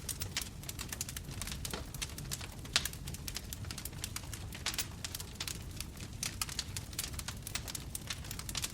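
Bonfire burning, with a steady low rumble of flames and frequent sharp, irregular crackles and pops of wood.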